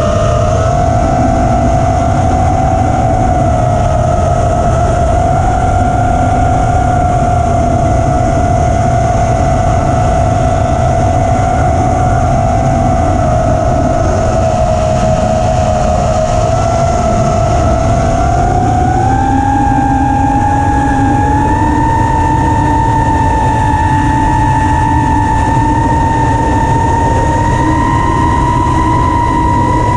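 FPV racing quadcopter's four T-motor F40 III 2400 kV brushless motors whining in flight, the pitch steady at first, then climbing in steps about two-thirds of the way through as the throttle goes up, and dropping right at the end. Heavy wind rumble on the onboard camera's microphone lies under the whine.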